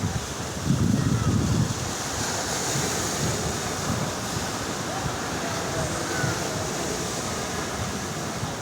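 Rough sea surf breaking and washing in a steady rush, with strong wind buffeting the microphone, hardest about a second in.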